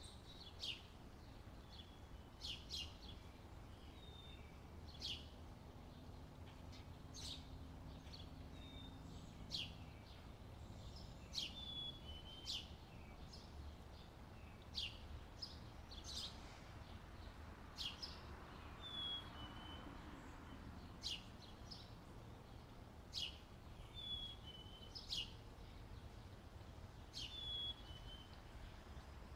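Birds chirping: short, sharp, high chirps roughly every two seconds, with brief falling whistled notes between them, over a faint low steady rumble.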